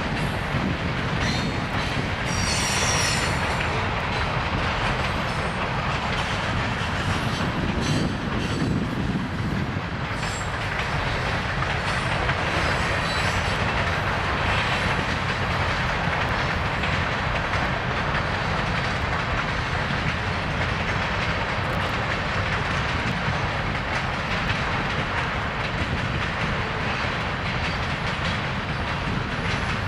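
Train rolling past: steady noise of wheels on the rails, with a brief high-pitched wheel squeal about two to three seconds in.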